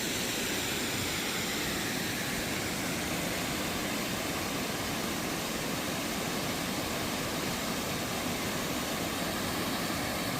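Waterfall, the falling water making a steady, unbroken rush.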